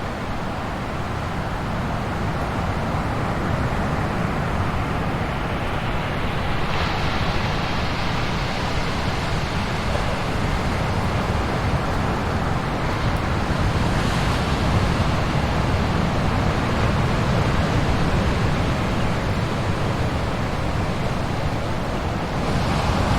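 Ocean surf: waves breaking and washing in a continuous deep rumble, with a brighter surge of breaking water about a third of the way in and again about two-thirds in.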